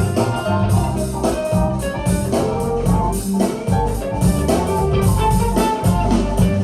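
Recorded music played back through Tannoy Platinum B6 stereo speakers with a subwoofer: a guitar-led track over heavy bass and drums.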